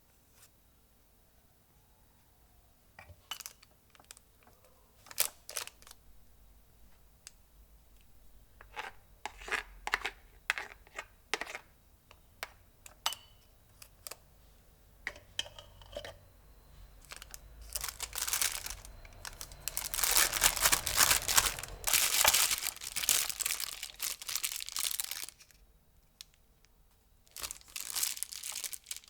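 Crinkling, rustling and tearing of wrapping being handled. It starts as scattered crackles, builds into a dense, louder crinkling about two-thirds of the way in, breaks off briefly, then resumes at the very end.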